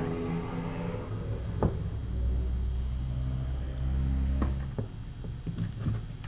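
A steady low motor hum that stops about three-quarters of the way through, followed by a few light clicks.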